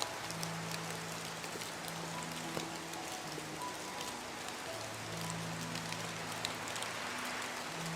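Steady rain falling, an even hiss with scattered individual drop clicks. Under it, soft background music of long held low notes.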